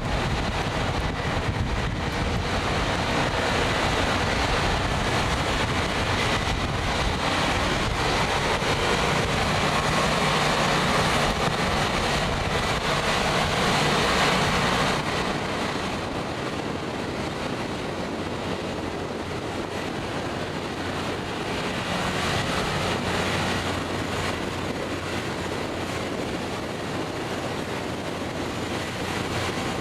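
Rail grinding machine working along the track: a continuous harsh grinding rush of stone wheels on the railhead. It is loudest about halfway through, drops sharply a moment later, then continues somewhat quieter.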